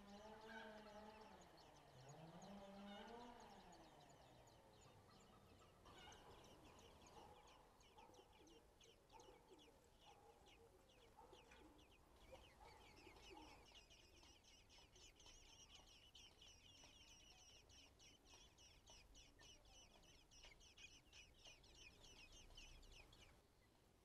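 Faint bird calls. First a drawn-out call with wavering pitch, then scattered short calls, then a long run of quick-repeated high chirps that stops shortly before the end.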